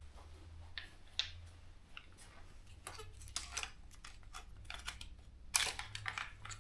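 A run of irregular light clicks and rattles over a steady low rumble, densest about five and a half seconds in.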